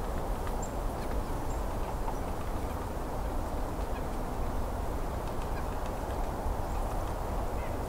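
Nasal calls of a white-breasted nuthatch over a steady low rush of background noise.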